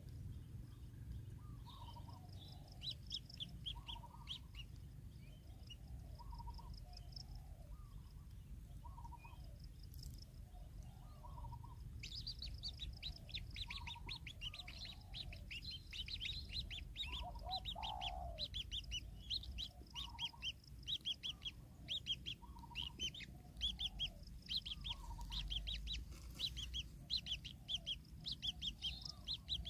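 Birds calling: a lower call repeats about every second and a half, while a rapid series of high, thin chirps comes and goes, then turns continuous and busier about halfway through.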